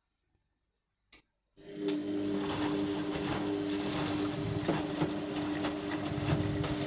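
Indesit MyTime washing machine: after a short click, the machine starts running with a steady hum, a wash of water noise and occasional clicks.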